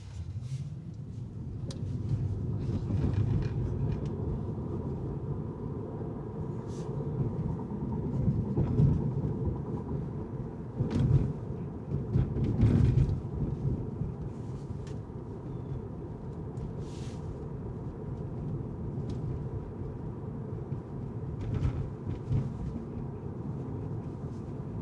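Car driving on city streets: a steady low rumble of tyres and engine, with a few brief clicks and knocks and some louder passing swells around the middle.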